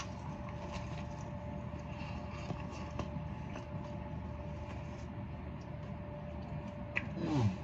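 Close-up chewing of a double Whopper burger: soft, faint mouth clicks over a steady low hum. Near the end the eater gives a short falling hum of the voice.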